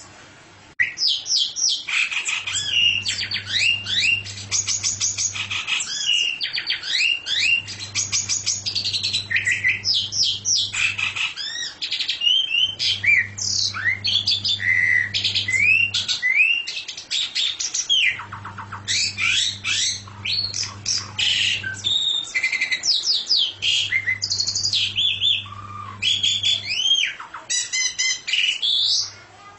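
A songbird singing a long, varied song of rapid whistled notes, up- and down-slurred phrases and fast trills, starting about a second in. A low hum comes and goes underneath every few seconds.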